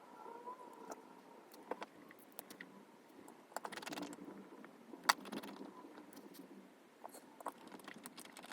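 Small scattered clicks and brief light scraping as tiny phone parts and hand tools are handled, with a sharper click about five seconds in.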